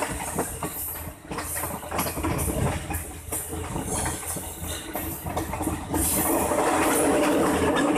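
Passenger train running, heard from on board at the end of a carriage: wheels clicking and rattling over the rails above a low engine hum, growing louder and steadier about six seconds in.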